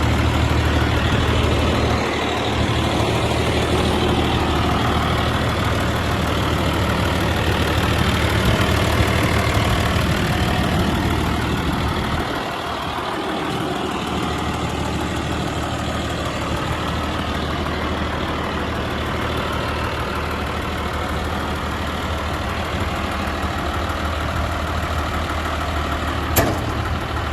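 1999 New Holland 8160 tractor's diesel engine idling steadily, with a single sharp click near the end.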